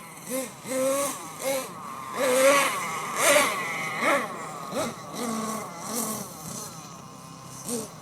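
Nitro RC monster truck's small glow-fuel engine revved in repeated short throttle blips, its pitch rising and falling about once a second.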